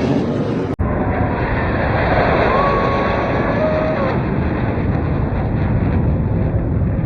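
Steady rumble of jet aircraft at an air display, mixed with wind buffeting the microphone, broken by a brief dropout a little under a second in.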